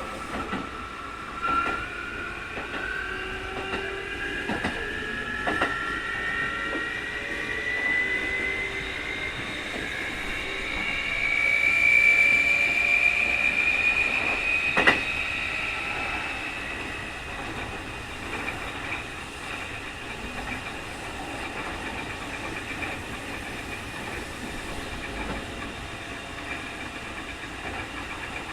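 Keikyu 2000 series electric train (field-chopper control) running, heard inside the car. Its strong whine, the so-called 'jet sound' of this unusual-noise car, rises steadily in pitch for about twelve seconds as the train gathers speed, is loudest around the middle, then holds near steady at speed. Rail-joint clicks run over it, the sharpest one about fifteen seconds in.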